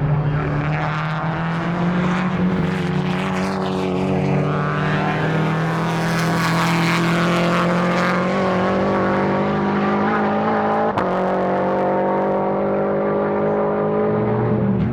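Time-attack race car engine running hard on the circuit, one car passing by around the middle, with the engine note climbing steadily as it accelerates. A single sharp click comes near the end.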